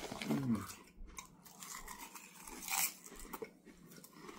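Potato chips being chewed, with crisp, irregular crunches; the loudest crunch comes about three seconds in.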